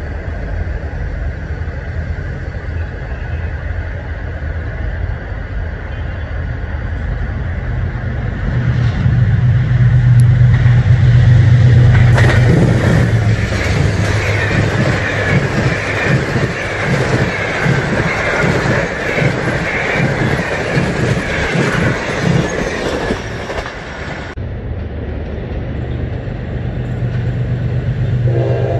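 GE diesel-electric locomotive hauling a passenger train at speed: its engine drone swells as it approaches, then the train passes close with rapid wheel clatter over the rails and a wavering wheel squeal. After an abrupt cut about two thirds in, the low drone of another approaching locomotive is heard.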